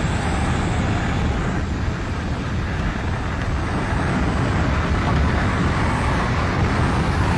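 Airplane in flight: a steady engine drone and noise with no change in level.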